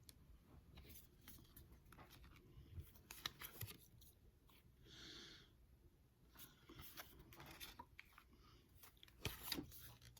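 Quiet handling of Pokémon cards and a foil booster pack wrapper: scattered light crinkles and clicks, with louder clusters of clicks about three seconds in and near the end, and a brief soft hiss about five seconds in.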